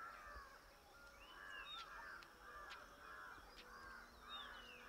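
Faint bird calls: a steady series of short repeated notes, about two a second, with a couple of higher whistled notes that rise and fall.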